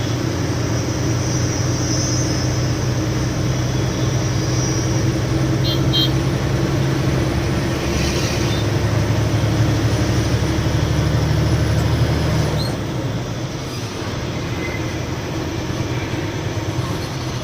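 A loaded lorry driving on the highway: a steady low engine drone with road and tyre noise. The low drone fades about twelve seconds in.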